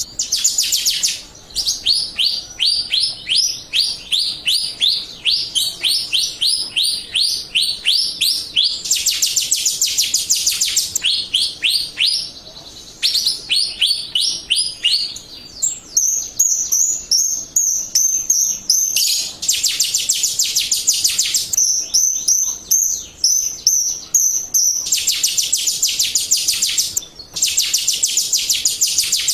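Jalak rio bird song as played for a lure recording: long runs of sharp, high, down-slurred chirps, several a second. These are broken by short bursts of dense, harsh chattering and by stretches of a thin, high, wavering whistle.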